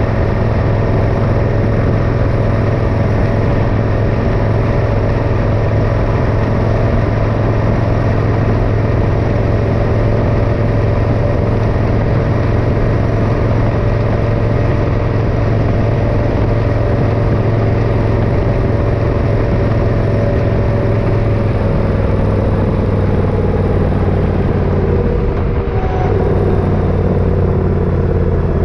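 Motorcycle engine running steadily under way, with road noise. Its pitch drops about three-quarters of the way through as the bike slows.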